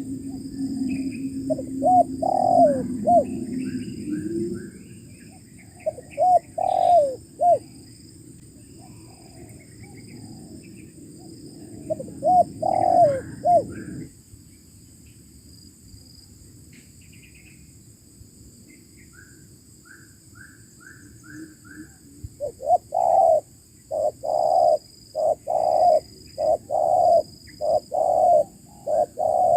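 Spotted doves cooing: short three-note phrases about 2, 6 and 12 seconds in, then from about 23 seconds a quick run of coos nearly two a second. Small birds chirp now and then, over a low hum that cuts off about 14 seconds in.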